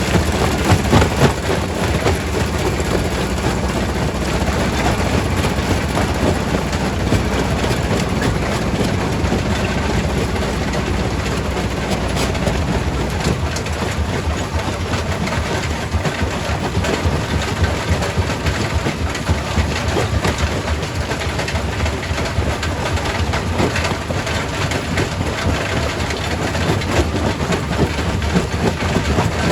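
Quarry primary rock crusher working: a steady heavy machinery rumble with a dense, continuous clatter of rocks knocking and breaking, a little louder near the start and end.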